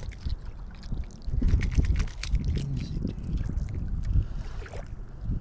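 Wind gusting on the microphone, a low uneven rumble, with scattered small clicks and rustles of handling.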